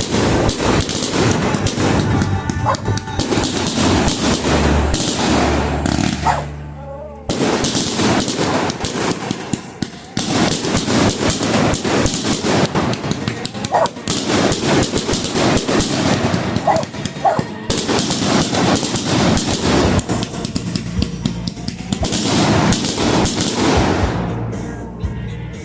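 Fireworks going off: a long run of rapid, crackling pops like a string of firecrackers, with short breaks about 7 and 10 seconds in.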